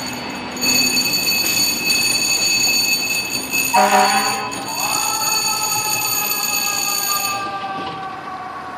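FDNY fire engine pulling out on a run: a steady high-pitched whine, a short horn blast about four seconds in, then the mechanical siren winding up quickly and slowly coasting down in pitch.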